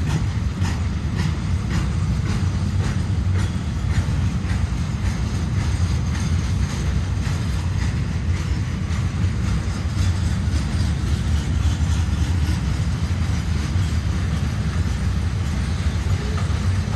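A freight train loaded with continuous welded rail rolls along the track: a steady low rumble with a run of wheel clicks, most frequent in the first few seconds.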